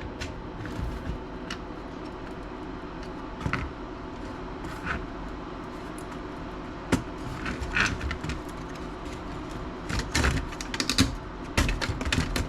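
Laptop being taken apart by hand: scattered light clicks and taps of plastic and metal parts, turning into a quick run of rattling clicks near the end, over a steady hum.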